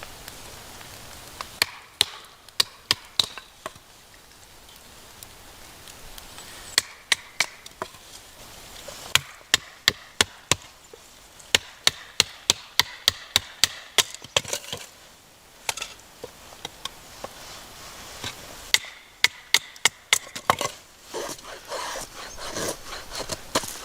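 Wood being chopped: runs of sharp strikes, a few a second, with short pauses between the runs.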